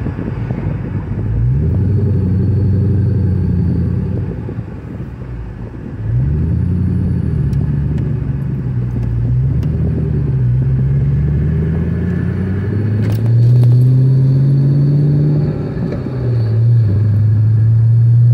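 2003 Ford Mustang SVT Cobra's supercharged 4.6-litre V8 heard from inside the cabin while driving slowly. The engine note climbs under light throttle and falls back several times, then holds a steadier, higher note near the end.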